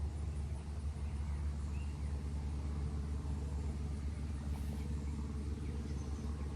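A steady low rumble with a few faint, short bird chirps above it.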